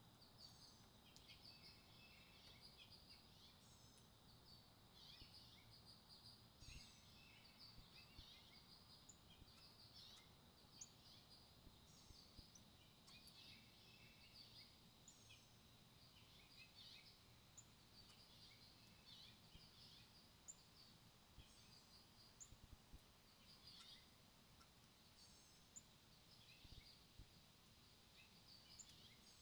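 Faint, scattered chirps and twitters of small songbirds, many short calls coming every second or so over a low, steady outdoor background hum.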